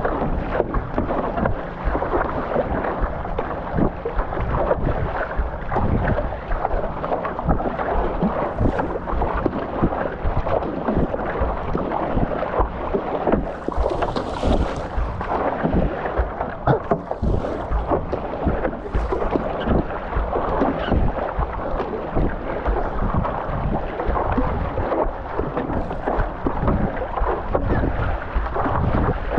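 Wind buffeting the microphone over a continuous rush of choppy water splashing and slapping around a stand-up paddleboard, with many irregular knocks and splashes.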